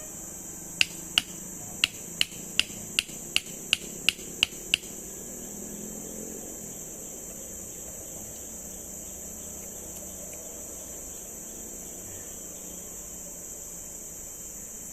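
Steady high-pitched drone of forest insects, with about eleven sharp knocks in quick, even succession during the first five seconds.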